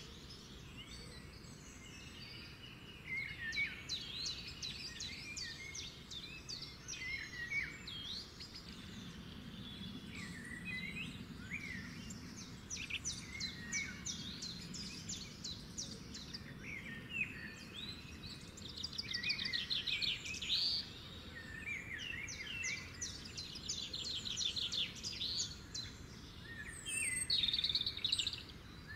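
Several small birds chirping and singing, with many quick repeated trills, over faint low background noise.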